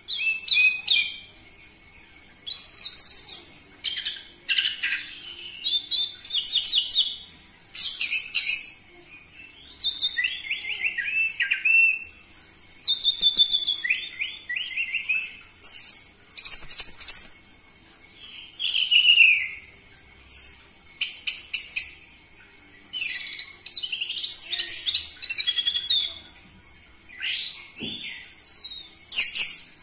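Orange-headed thrush singing: a varied, high-pitched song of phrases a second or two long, mixing sweeping whistles with rapid runs of chattering notes, with short pauses between phrases.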